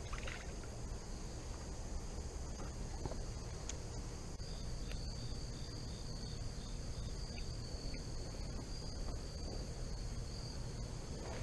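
Insects calling in a steady high-pitched chorus. About four seconds in, another insect joins with a run of short chirps, about three a second, for roughly three seconds.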